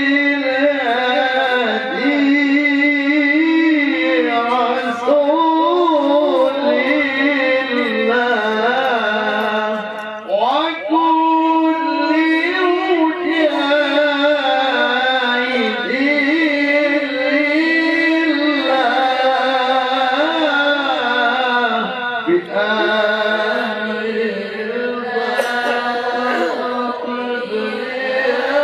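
A male qari's voice in melodic Quran recitation (tilawah), drawing out long ornamented phrases with a wavering, sliding pitch. The voice breaks off briefly about ten seconds in and again later on.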